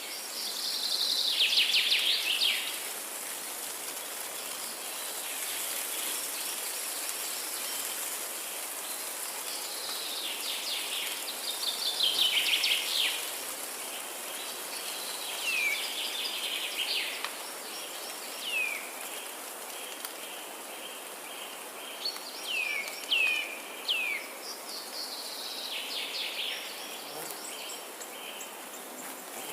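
Forest ambience: songbirds singing, with three loud falling trilled phrases (near the start, about twelve seconds in, and near the end) and short down-slurred whistles in between, over a steady high-pitched insect drone.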